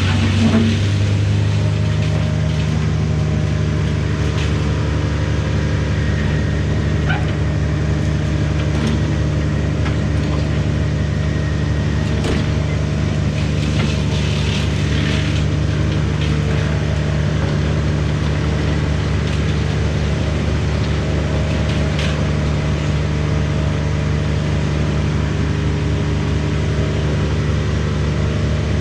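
Diesel engine of a Sany SY-95 excavator running at a steady idle as it warms up.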